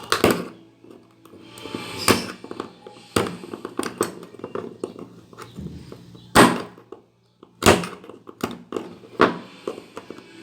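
Sharp knocks and clunks of fan parts being handled and tapped during repair, about half a dozen loud strikes at irregular intervals with smaller clicks between, over faint background music.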